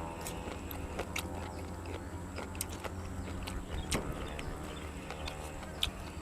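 A person chewing and biting food close to the microphone: a run of irregular crisp clicks and crunches from the mouth.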